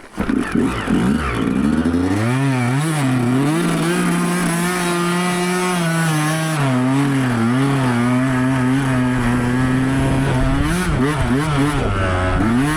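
Yamaha YZ125 two-stroke single-cylinder dirt bike engine revving up hard about half a second in, then held at high revs, its pitch rising and falling as the throttle is worked, easing briefly near the end.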